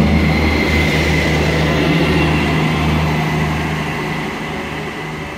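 ScotRail Class 158 diesel multiple unit departing and passing close by, its diesel engines running with a steady low drone over the noise of wheels on rail. The sound slowly fades as the train pulls away.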